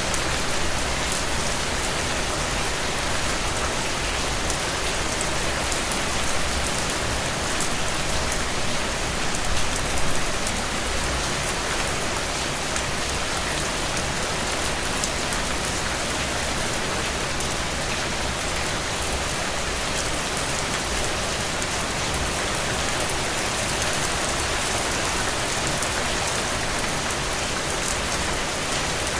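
Steady rain falling, a dense, even hiss of drops on a surface with fine patters throughout.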